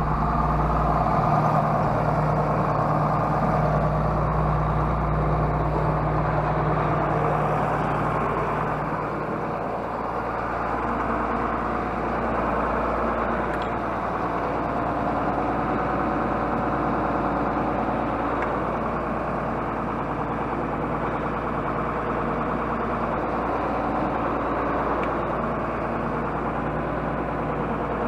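John Deere tractor's six-cylinder diesel engine running steadily, heard from inside the cab. Its low hum eases a little about nine seconds in.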